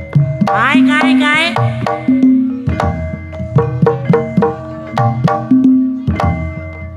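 Javanese Banyumasan gamelan music: kendang hand-drum strokes over struck metallophone notes in a steady rhythm, with a brief sung vocal phrase about half a second in.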